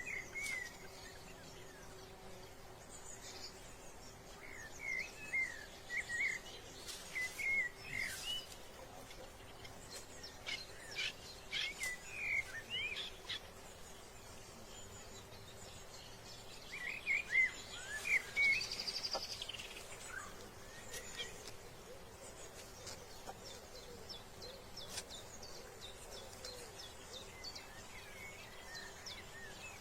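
Birds chirping in scattered clusters of short, quick notes, with a brief higher trill about two-thirds of the way through. Under the chirps runs a faint steady hum.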